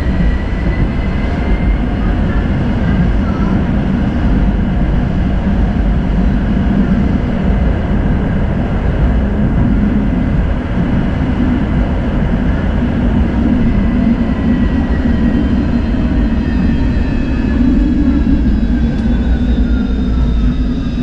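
Tram running along the track between stops: a steady rumble of steel wheels on rails, with a faint whine that slides down in pitch over the last several seconds.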